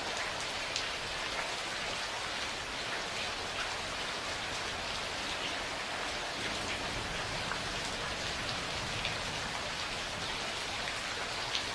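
Steady rain falling, an even hiss with scattered close drops ticking on a surface. No thunder stands out.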